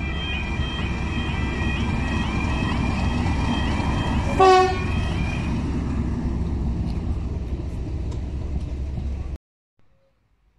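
Train rumbling over a level crossing while the crossing's warning alarm sounds a repeating warble. About halfway through, a diesel locomotive gives one short horn blast, and soon after the alarm fades. The train noise cuts off abruptly near the end, leaving near silence.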